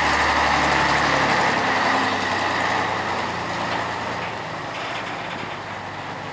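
Scania 112 M truck's 11-litre straight-six diesel engine running. Its low hum stops about a second in, and the rest of the sound grows steadily fainter.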